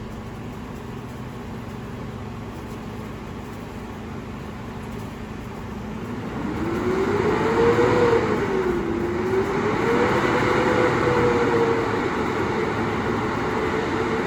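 Garbage truck engine running low and steady, then revving up about six seconds in; the pitch rises, dips, rises again and holds at a higher steady note.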